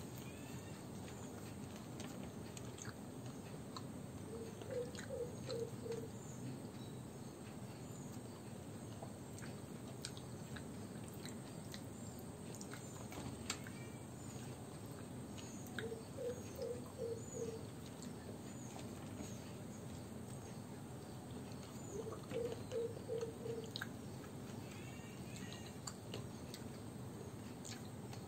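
Quiet chewing and mouth sounds of a person eating rice by hand, with small clicks of fingers picking at a plate. Faint bird chirps sound in the background, and three times a short run of four or five low hooting notes is heard.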